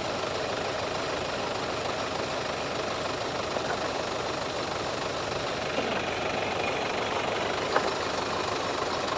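Tractor's diesel engine running steadily, with a short click just before the end.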